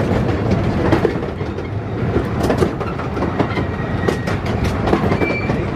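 Miniature railway train running along the track, heard from on board: a steady rumble with irregular clicks and knocks from the wheels on the rails.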